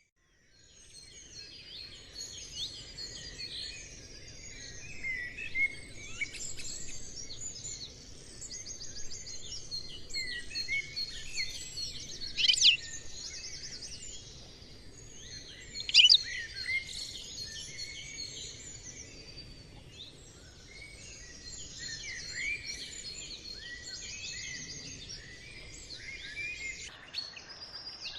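Many small songbirds chirping and trilling together in a dense morning chorus, with two louder, sharp calls about halfway through.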